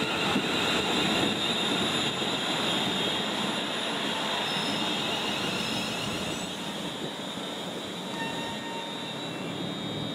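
A train passing on the line: a steady rush of wheel and running noise with high steady whines, slowly dying away as it moves off.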